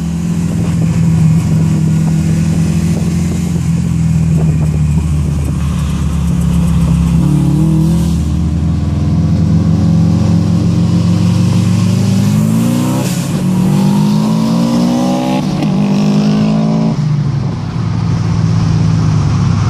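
Turbocharged Subaru EJ20 flat-four heard from inside the cabin. It runs steadily at low revs for about twelve seconds, then accelerates hard in a roll-on race: the revs climb, drop briefly at two quick upshifts, climb again, and fall back to a steady note near the end.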